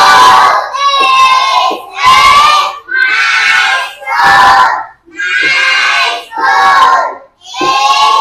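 A class of children reading aloud in unison, chanting the text word by word, about one word a second.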